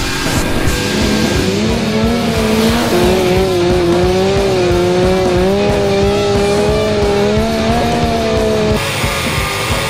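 Car tyres squealing through a drift, a wavering held tone that rises in about one and a half seconds in and cuts off abruptly near the end, with background music underneath.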